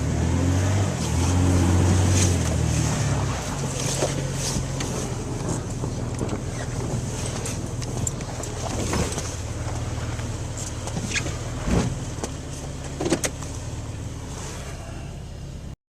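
Vehicle engine revving hard for the first few seconds while driving through deep snow, then running at a steadier, lower pitch, with a few sharp knocks.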